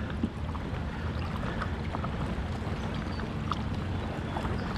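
Steady wash of river water around a kayak, with scattered faint small ticks and splashes.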